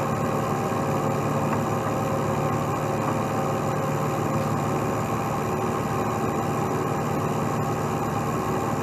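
Heavy truck diesel engine idling steadily at an even pitch.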